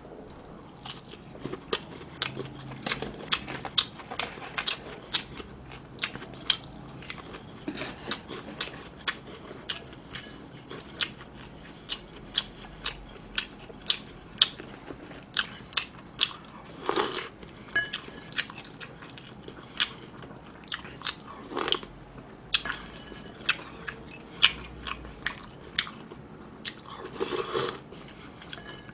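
Close-miked chewing and biting of crispy deep-fried pork cutlet and spoonfuls of rice in yukgaejang, a steady run of sharp crunchy clicks. A few longer, louder mouth sounds come through about halfway and twice more near the end.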